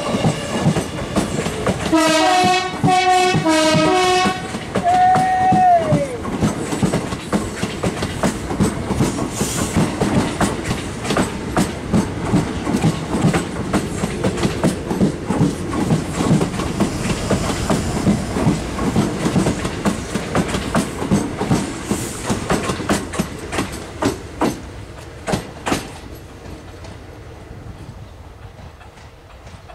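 A pair of Class 365 electric multiple units departing: about two seconds in the driver plays the horn in a quick run of alternating high and low toots, then sounds one longer note that sags in pitch as it ends. After that the wheels clatter rhythmically over rail joints and points as the train pulls away, fading out near the end.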